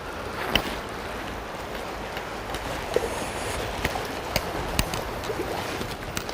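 Steady rush of flowing river water with wind, broken by a few scattered sharp clicks or splashes.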